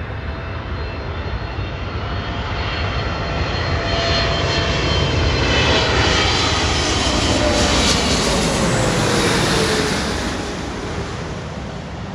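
Philippine Airlines jet airliner flying past on its arrival, its engine noise swelling to a peak near the middle and then fading, with a whine that drops in pitch as it goes by.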